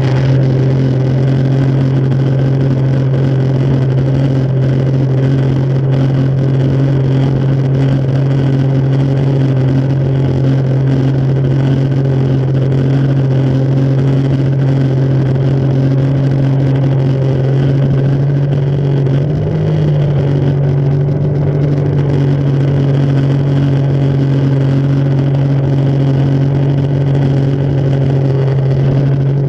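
Jet ski engine running at a steady throttle: one even drone that wavers briefly in pitch about two-thirds of the way through.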